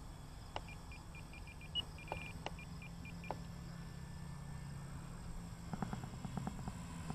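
Radio-control transmitter beeping as its trim switch is stepped: a string of short high beeps in the first few seconds, over a faint steady low drone. A patter of faint clicks comes near the end.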